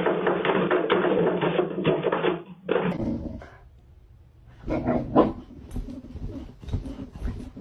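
A cat yowling, which cuts off about three seconds in. Then, after a short lull, a dog makes a few short vocal sounds.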